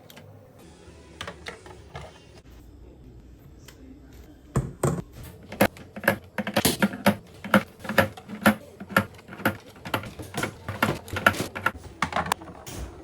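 Items being set down and arranged while organising a fridge: a quick series of hard clacks and knocks, roughly two a second, starting about four seconds in after a few softer clicks.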